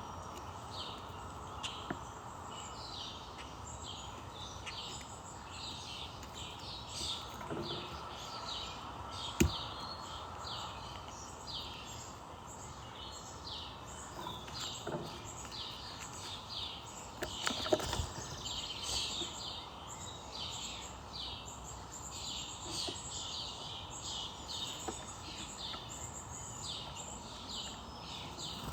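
Small birds chirping over a steady background noise, with many short high chirps, several a second. Two sharp knocks, about nine seconds in and again around eighteen seconds.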